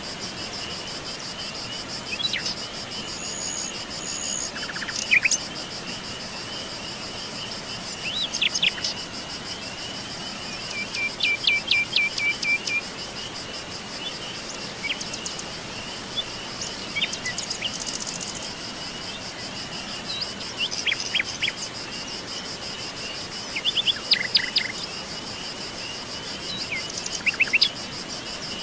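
Wild birds calling in short chirps, quick down-sweeping notes and a brief trill, over a steady high-pitched pulsing chorus of insects such as crickets.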